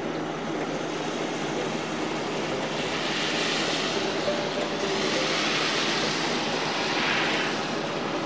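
Steady rain falling on a wet porch, puddles and a plastic planter. A louder hiss swells in from about three seconds in and fades again near the end.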